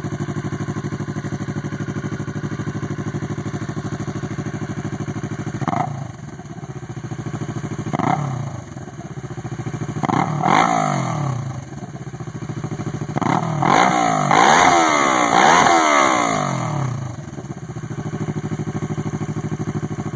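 Kawasaki ER-6n's 649 cc parallel-twin engine through a loud Jardine GP1 aftermarket exhaust, idling, then revved in three quick blips and one longer rev before settling back to idle.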